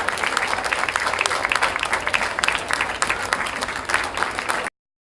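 Audience applauding, dense clapping that cuts off suddenly near the end.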